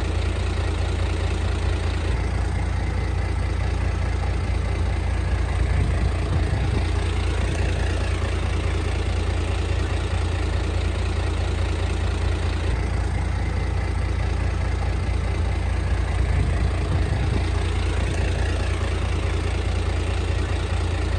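Heavy diesel engine of an earthmoving machine running steadily, with strong deep low-end energy and no sudden knocks or bangs.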